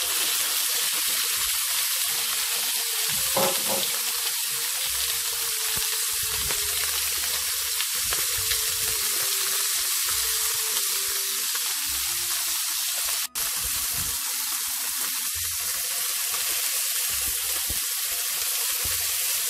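Chicken mid-wings sizzling in hot oil in a nonstick wok, skin side down, searing until golden before they are flipped: a steady frying hiss, briefly cut off about two-thirds of the way through.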